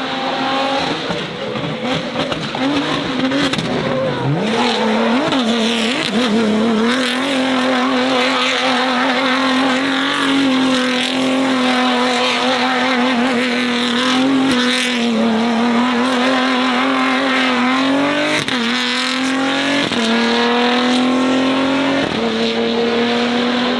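A car's engine held at steady high revs for long stretches, with tyres squealing. The engine note climbs about four seconds in, dips sharply near the end, then climbs again.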